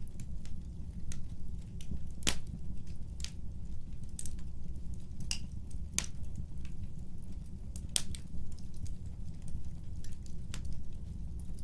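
Wood fire crackling: irregular sharp pops and snaps over a low steady rumble, with two louder pops about two seconds in and near eight seconds in.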